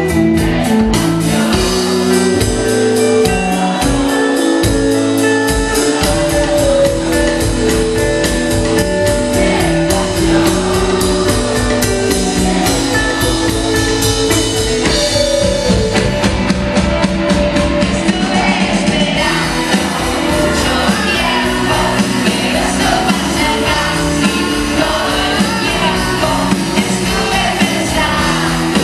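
Rock band playing live, with drum kit and bass driving a steady beat. A singer's voice comes in about two-thirds of the way through.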